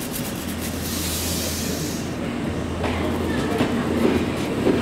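Odakyu 7000 series LSE electric train rolling slowly along a station platform. There is a burst of hiss about a second in, and the clicks of its wheels grow louder in the second half as the cars pass close by.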